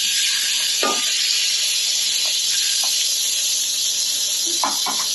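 Raw chicken breast pieces sizzling in hot oil in a wok as they go in with garlic and onion: a loud, steady hiss. A few light knocks come about a second in and again near the end.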